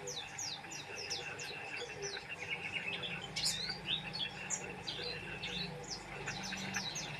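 White-eye (pleci) singing busily, a fast unbroken string of short, high, downward-slurred chirps.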